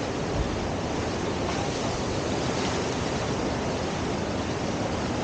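Steady rush of whitewater from a standing river surf wave, with a small thump about half a second in.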